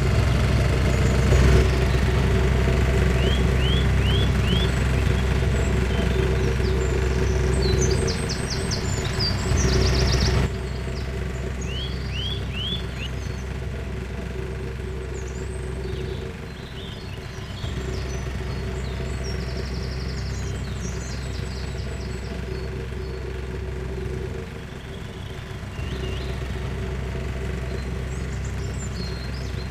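A small motor running steadily with a low hum, its level dropping about ten seconds in and dipping briefly twice later, while small birds chirp in the background.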